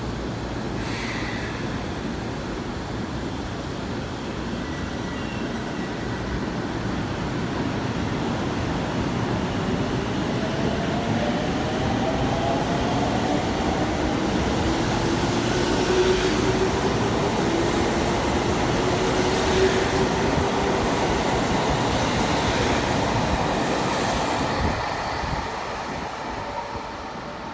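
JR Central 313 series electric train pulling out, its VVVF inverter traction motors whining higher in pitch as it gathers speed over the rumble of wheels on rail. The sound drops away near the end as the train moves off.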